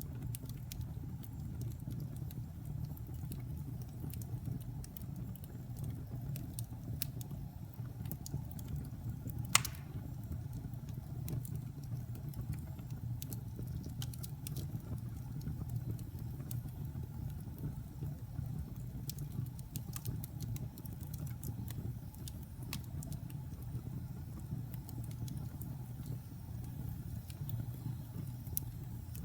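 Log fire burning in a fireplace: a steady low rumble of flames with scattered crackles, and one sharp, loud pop about a third of the way through.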